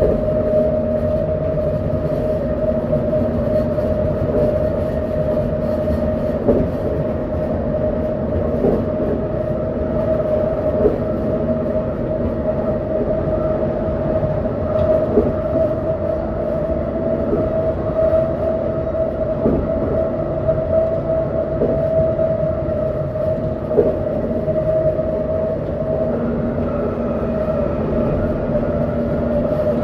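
Vancouver SkyTrain Expo Line train, driven by linear induction motors, running at speed along the elevated guideway, heard from inside the front car. A steady whine sits over the running noise, with a light knock about every two seconds.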